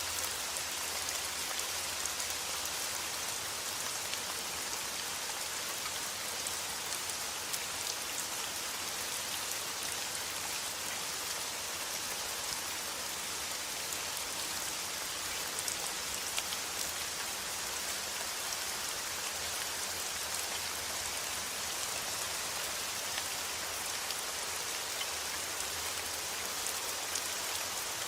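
Steady rain falling: a dense, even hiss with scattered individual drop hits.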